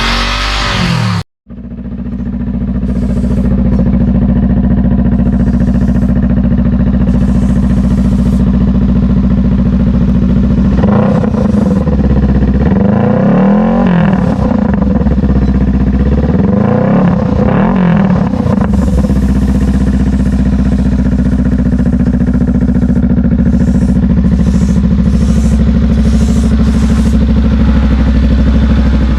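Honda Rebel 500's parallel-twin engine idling through an aftermarket Orion muffler. It cuts out briefly about a second in, and is revved up and back down three times about halfway through before settling back to idle.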